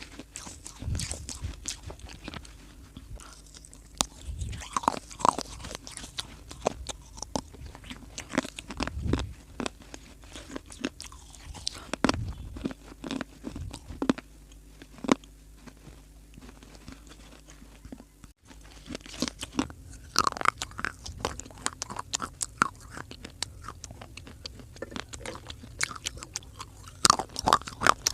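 Close-miked mouth crunching and chewing dry clay: a dense run of irregular sharp crunches and bites, grinding between them.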